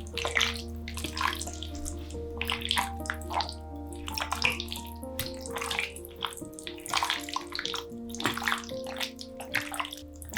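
Water splashing and running in short irregular bursts, as at a kitchen sink, under background music with slow, long-held notes.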